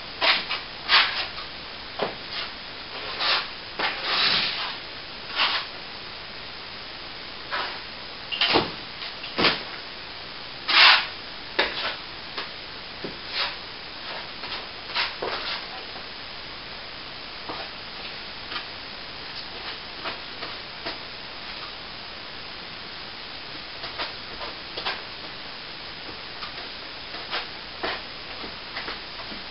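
Plastering work with hand tools: a series of short scrapes and clicks, a few of them longer strokes of up to half a second, busier in the first half and sparser later, over a steady hiss.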